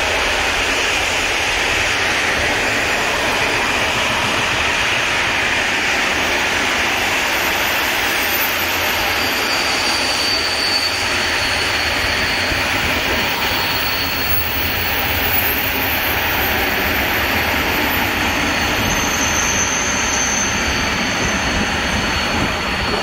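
A train running past: a loud, steady rush of wheel-on-rail noise. Faint high-pitched squealing tones join in about a third of the way through.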